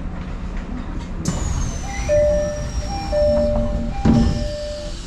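Electric train running, with a high whine sliding slowly down in pitch from about a second in. From about two seconds in, a two-note electronic chime alternates repeatedly over the running noise.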